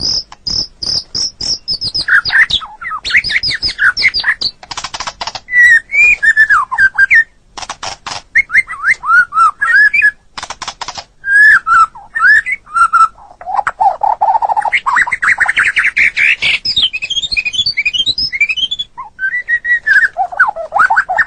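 White-rumped shama (murai batu) singing a long, varied song: fast runs of repeated high notes, whistled notes that slide up and down, and several quick rattling trills, with a lower phrase about two-thirds of the way through.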